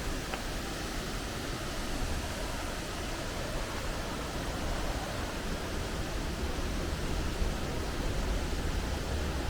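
Steady rushing noise of a large waterfall's falling water, even and unbroken.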